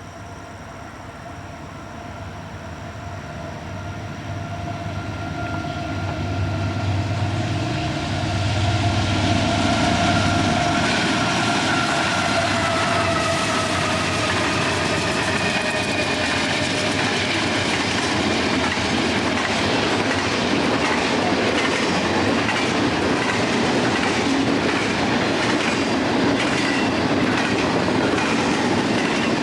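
A train approaching and passing close by. It grows louder over the first several seconds, with a steady tone that drifts slowly lower in pitch. It then settles into a steady rolling clatter of wheels clicking over rail joints.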